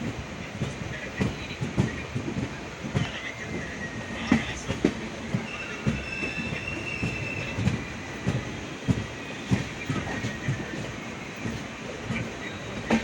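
Indian Railways passenger train running along the track: a steady rumble with irregular knocks from the wheels over the rails, and a brief high-pitched wheel squeal about midway.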